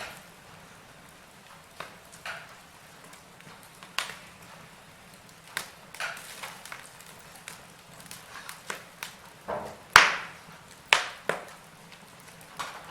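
Wood fire burning in a fireplace, crackling with irregular sharp pops and snaps over a faint hiss; the biggest pop comes about ten seconds in.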